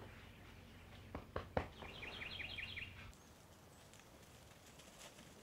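A bird calling faintly: a quick run of about eight short, falling chirps about two seconds in. A few soft clicks come just before it.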